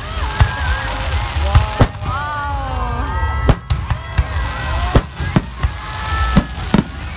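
Aerial fireworks shells bursting in quick succession: about a dozen sharp bangs over a continuous low rumble.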